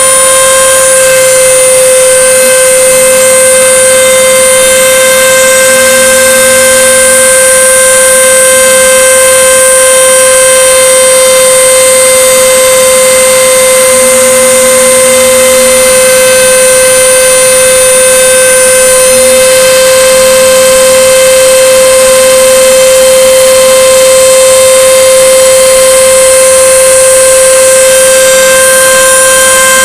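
CNC router spindle running with a loud, steady high whine while milling 5 mm plywood on a second pass. Faint lower tones come and go beneath the whine.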